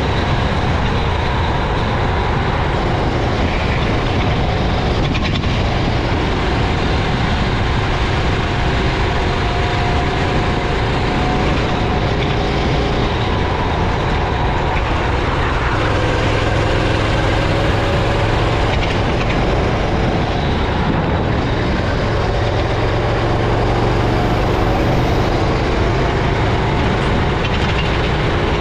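Racing kart engine running hard, its pitch rising and falling with throttle and speed through the lap, over a steady rush of wind and track noise.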